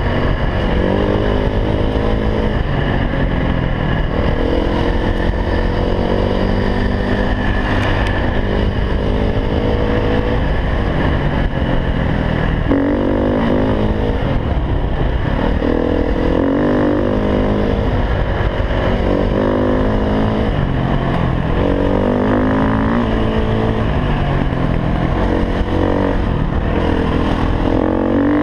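KTM 350 EXC single-cylinder four-stroke enduro motorcycle engine, ridden hard. Its pitch climbs and drops again and again as the rider opens the throttle, shifts and backs off.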